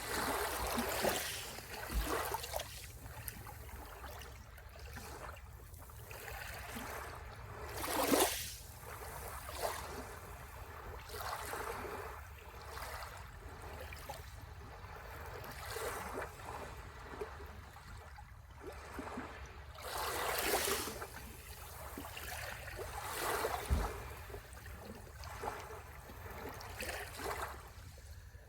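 Sea waves washing onto the shore in irregular swells of hiss, with louder waves breaking about eight seconds in and again about twenty seconds in.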